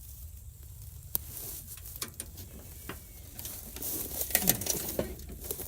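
Handling noise from a Billy Goat brush mower being tipped onto its side: scattered clicks and knocks, busier about four seconds in.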